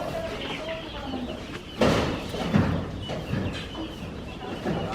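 Chickens clucking, with two sharp knocks about two seconds in and again half a second later.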